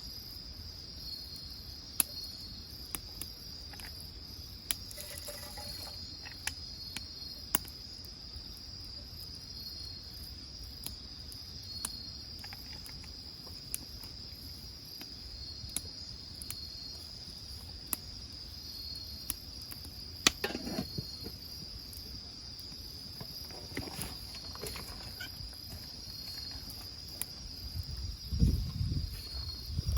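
Insects trilling steadily in a high, continuous, pulsing chorus, with scattered sharp crackles and pops from a burning wood fire. A low rumble comes in near the end.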